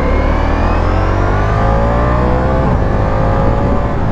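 Ducati Diavel V4 motorcycle's V4 engine pulling hard under acceleration, its pitch rising steadily. It breaks briefly about two-thirds of the way through for a quick-shifter upshift, then climbs again.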